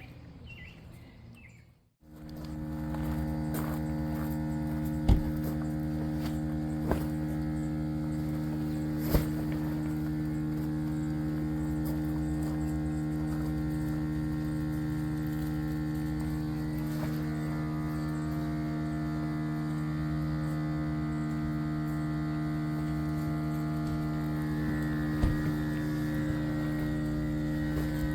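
A steady mechanical hum with a few short clicks over it.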